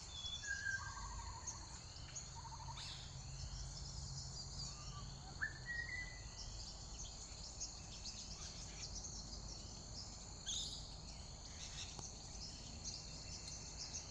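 Wild birds calling over a steady, high-pitched insect drone. There are short chirps, a couple of brief trills early on, and a run of repeated short down-slurred calls through the first half.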